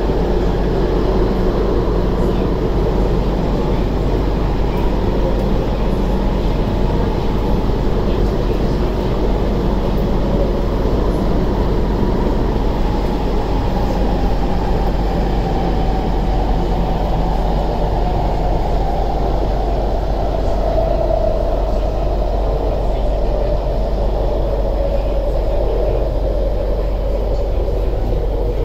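Cabin noise inside a moving MTR West Rail Line SP1900 (IKK) train: a steady rumble of wheels and running gear. Over the second half a traction-motor whine slowly falls in pitch as the train slows.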